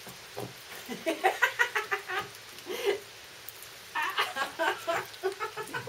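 People's voices talking and laughing in short bursts, with a quick run of laugh-like pulses about a second in.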